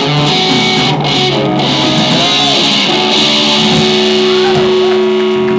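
Live rock band playing, with distorted electric guitars holding and bending notes over a steady wash of cymbals.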